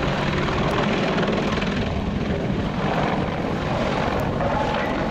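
AH-64 Apache attack helicopter flying past, its rotors and twin turbine engines giving a steady, loud drone.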